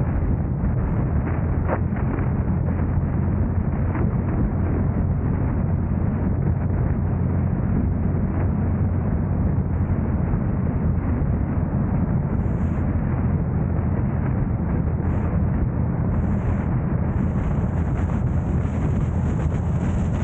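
Steady low rumble of wind buffeting the camera's microphone and road noise from a moving car. A faint high hiss comes and goes in the second half.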